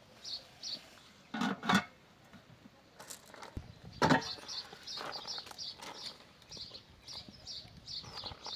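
Small birds chirping in quick repeated notes, with a few short knocks or clatters, the loudest about four seconds in.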